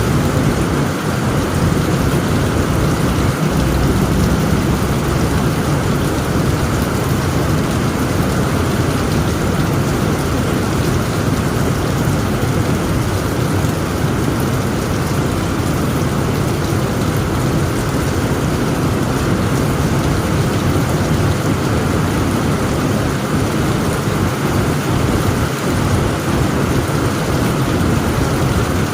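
Heavy rain pelting steadily on a tent roof, with a continuous low rumble of thunder underneath.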